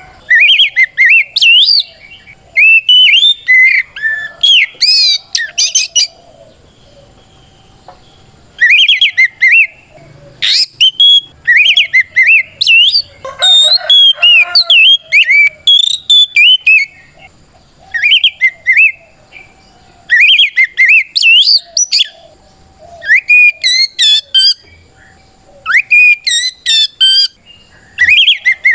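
Oriental magpie-robin (kacer) singing loud, full-voiced whistled song phrases full of quick up-and-down glides, in bursts with short pauses between them. It is a challenging fighting song, a call to a rival bird.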